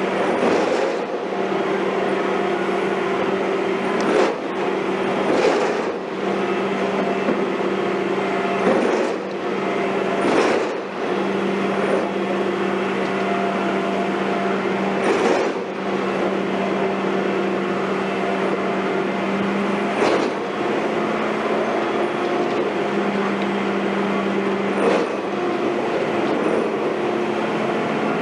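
Heavy construction machinery running steadily with a low droning hum, punctuated by sharp knocks every few seconds.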